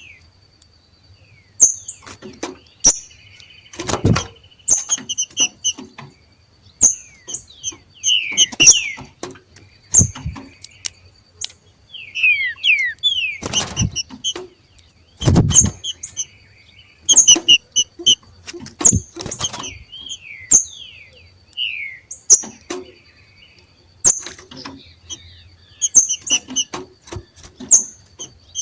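Two green-winged saltators (trinca-ferro) giving the 'macheado': bursts of short sharp chirps and quick falling whistled notes, repeated irregularly. This is the excited call these birds make as they come into breeding condition. Several sharp thumps or clicks are mixed in.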